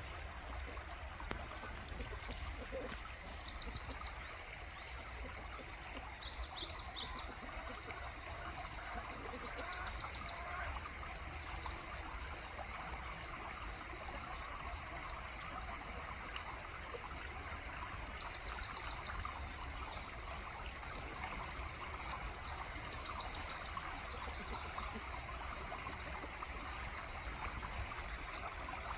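Steady rush of a flowing stream, with a small wild bird singing a short, high, rapid trill about half a dozen times at irregular gaps.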